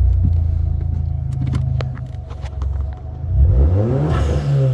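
2015 VW Golf GTI Mk7's turbocharged 2.0-litre four-cylinder, fitted with a CTS turbo inlet pipe, aftermarket intake and downpipe, idling while stationary, then blipped: the revs rise a little past three seconds in, peak with a rushing hiss, and start to fall near the end.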